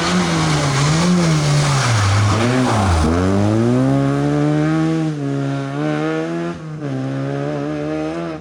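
Rally car at full effort: the engine note drops about three seconds in, then climbs hard as it accelerates away, with brief dips at gear changes. Tyre and sliding noise is heaviest in the first few seconds.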